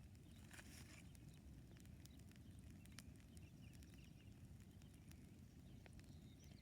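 Campfire crackling faintly, with scattered sharp pops and snaps over a low steady rumble.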